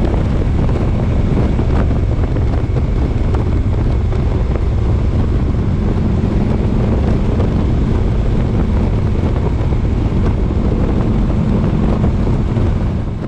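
Wind buffeting an action camera's built-in microphone on a moving motorcycle, a loud steady rush with the low drone of the engine and road underneath. The level drops just at the very end.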